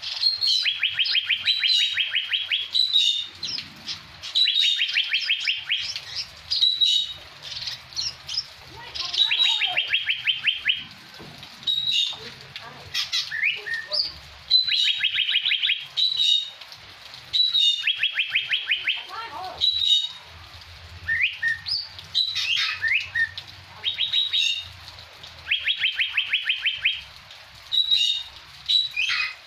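Leafbird singing in repeated phrases, each made of a sharp high note or two and then a fast, even trill about a second long, with short slurred notes between phrases. The song mimics the call of the Asian fairy-bluebird.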